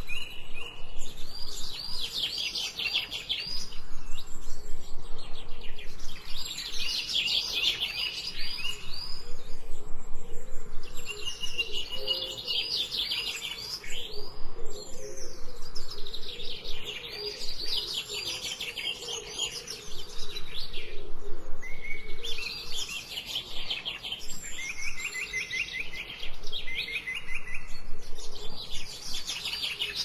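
Songbird singing: rapid phrases of quick repeated chirping notes, each lasting a second or two and coming back every few seconds, in a nature recording mixed as 8D audio so the sound moves around the listener.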